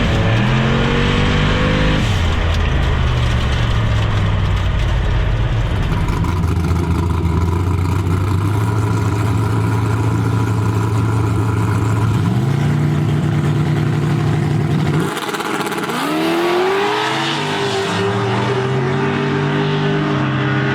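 Turbocharged LS V8 engine in a Nissan truck running hard on a drag pass. The pitch climbs, holds high and climbs again about twelve seconds in, then drops suddenly about fifteen seconds in as it lets off, with a few rises and falls in revs after that.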